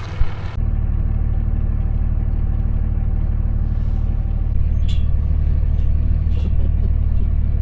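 Truck engine and road noise while driving: a steady, even low drone.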